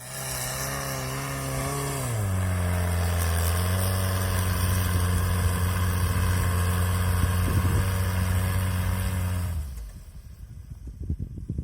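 Toyota 1NZ-FE 1.5-litre four-cylinder engine of an all-terrain vehicle running under load; its pitch drops about two seconds in and then holds steady. Near the end it cuts off suddenly to a quieter hiss.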